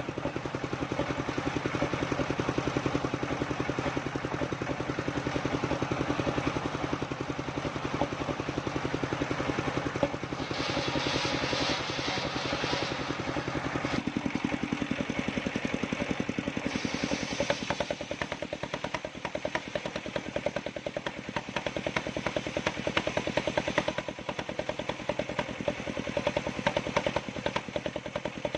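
Engine of a homemade circular-saw sawmill running steadily with a fast, even pulse. About ten seconds in, a stretch of higher-pitched noise comes in for a few seconds, and the engine's note shifts a little after that.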